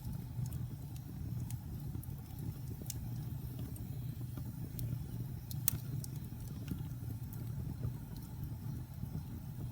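Wood fire burning in a fireplace: a steady low rumble of flames with irregular sharp crackles and pops, the loudest pop a little past halfway.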